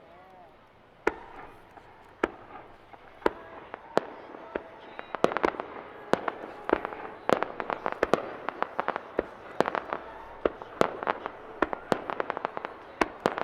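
Aerial firework shells bursting: single bangs about a second apart at first, then a rapid barrage of many overlapping bangs from about five seconds in.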